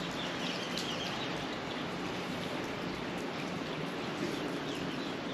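Steady rush of running water from a mountain stream, with a few faint, short, high bird chirps over it.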